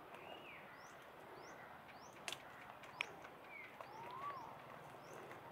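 Birds calling in forest, heard faintly. A short, high, rising chirp repeats about every second, with a few slurred whistled notes that rise and fall. Two sharp clicks come about halfway through.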